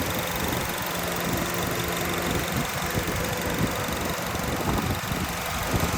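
2010 Honda CR-V's 2.4-litre four-cylinder engine idling steadily with the hood open, running well.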